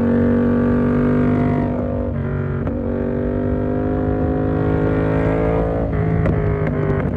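Yamaha MT-07's parallel-twin engine through an SC Project exhaust with the dB killer fitted, pulling with revs climbing slowly. The pitch dips briefly about two seconds in and again near six seconds, as at gear changes, then climbs again.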